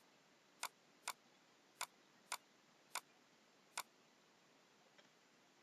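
Computer mouse clicking, seven sharp single clicks at an uneven pace over about four seconds and a faint one near the end, as lines are picked one after another for an AutoCAD trim.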